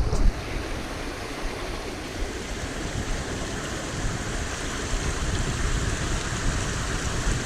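Steady rush of flowing stream water, with wind buffeting the microphone in an uneven low rumble.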